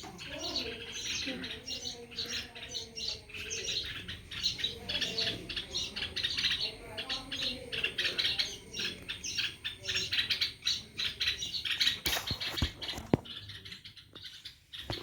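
A flock of small birds chirping and twittering in quick, overlapping calls. A few sharp knocks come about twelve seconds in, after which the chirping drops away briefly.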